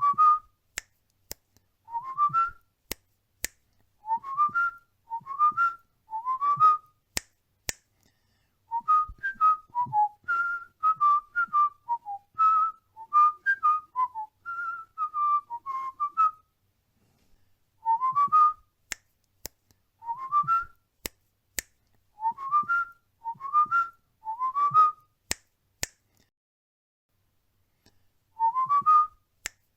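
A cockatiel whistling a learned tune: short rising whistled phrases repeated in groups, with a longer winding run of notes in the middle, and sharp clicks scattered between them.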